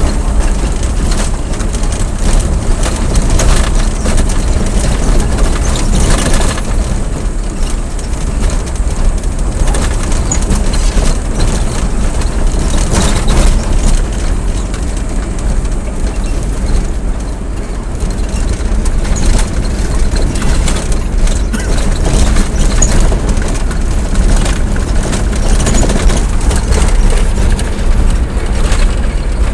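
A vehicle running along the road: a steady, loud deep rumble of engine and road noise that carries on without a break.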